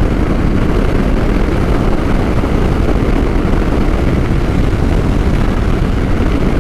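Steady wind rush and road noise of a motorcycle cruising at highway speed, heard as a constant low roar with no distinct engine note.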